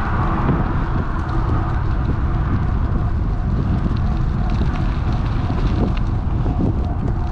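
Steady wind noise buffeting a GoPro Hero 8 Black's microphone on a moving electric bike, with a few faint clicks through it.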